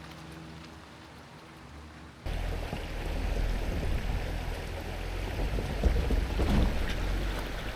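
Jeep Gladiator driving off-road: a steady low engine hum, then after a sudden cut about two seconds in, a louder rough rumbling noise heavy in the low end.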